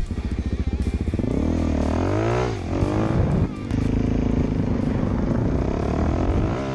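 Motorcycle engine running, revving up and down twice about two seconds in, then holding a steady pitch.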